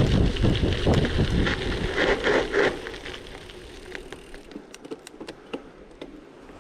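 Gravel bike riding: wind buffeting the microphone over the rumble and crunch of tyres on gravel. About two and a half seconds in, the noise drops sharply to a quieter hiss with scattered small clicks and ticks from the bike.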